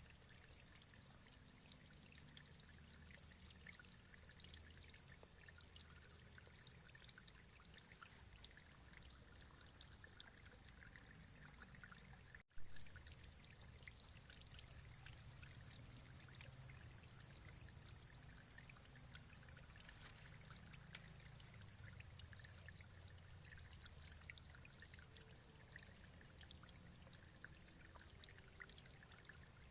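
Faint, steady running water trickling, with many small ticks of droplets. About halfway through the sound cuts out for an instant, then comes back with a short pop.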